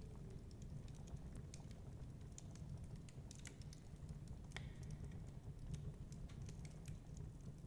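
Wood fire crackling in a fireplace: irregular small snaps and pops, one sharper snap a little past the middle, over a steady low rumble of storm wind.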